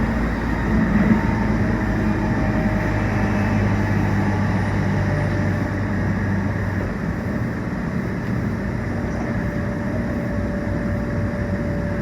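Meitetsu 1800 series electric train running at speed, heard from inside the car: steady wheel-on-rail and traction running noise. A low hum fades out about seven seconds in, and a faint higher steady tone comes in near the end.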